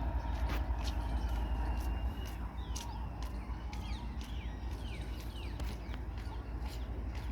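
Goods train running past: a steady low rumble with many sharp clicks from the wheels and rails. Birds chirp high above it in the middle.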